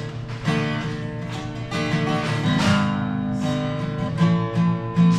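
Acoustic guitar strummed steadily through an instrumental passage of a folk-rock song, with no singing.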